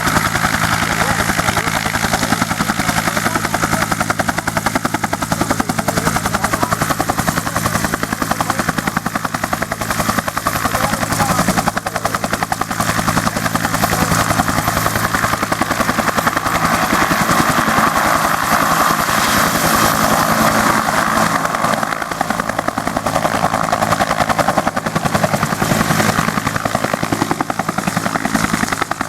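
U.S. Army UH-1 Huey helicopter running, its two-blade main rotor beating in a fast, even rhythm over the steady whine of its turbine engine. The sound stays loud and even throughout.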